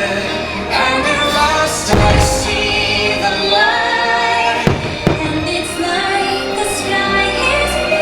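Fireworks show soundtrack with a woman singing over music, broken by firework bursts, one about two seconds in and two in quick succession about five seconds in.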